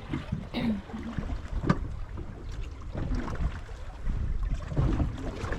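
Wind buffeting the microphone aboard a small fishing boat, with a low rumble of wind and water against the hull and a few scattered sharp knocks.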